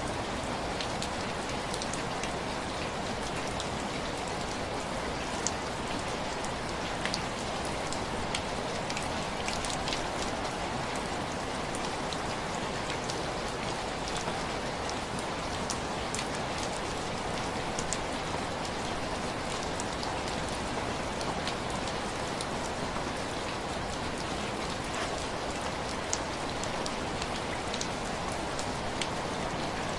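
Heavy rain falling steadily, a dense even hiss with many scattered sharp ticks of drops striking hard surfaces.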